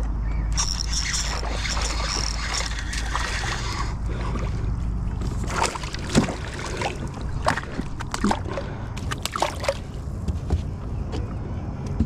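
Water sloshing against a kayak's hull under a steady low rumble, with a string of sharp knocks and clicks against the boat from about halfway through.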